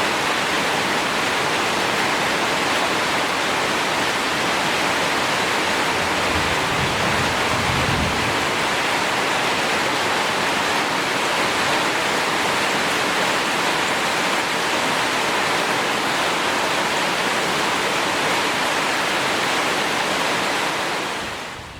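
Steady rushing water noise, even and unbroken, fading out near the end.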